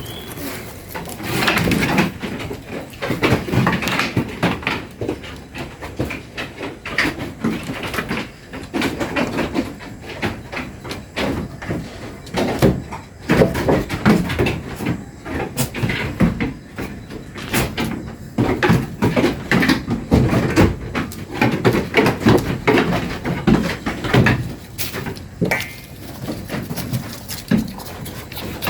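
Goats bleating at intervals, with repeated knocking and clattering.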